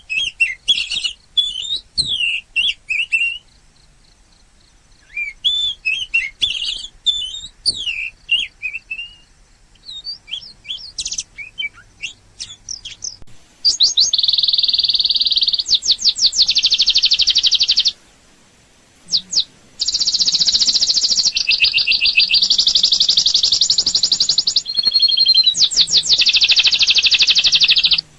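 Birds chirping and calling in short, varied notes. About halfway through, a loud, fast trill takes over in long runs with brief breaks.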